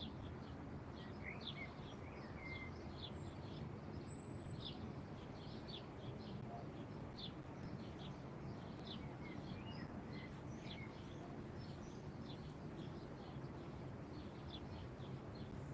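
Small birds chirping, a steady run of short high chirps, with one higher, sharper whistle about four seconds in, over a steady low background rumble.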